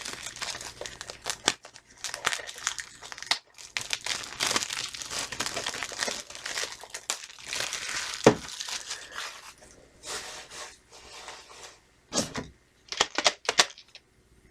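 Plastic shrink wrap being torn and crumpled off a VHS tape box, crinkling for about ten seconds, then a few short rustles and taps near the end.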